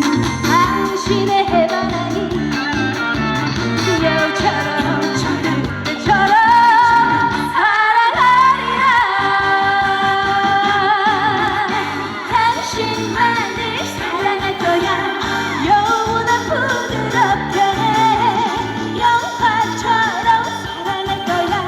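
Female singer singing a Korean trot song live over a backing track with a steady beat.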